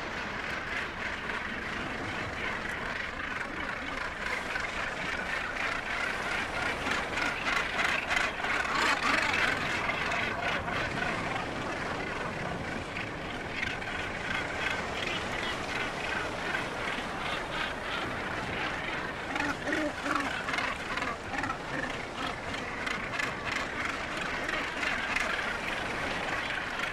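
Northern gannet colony calling: a dense, continuous chorus of harsh calls from many birds at once, swelling a little about a third of the way through.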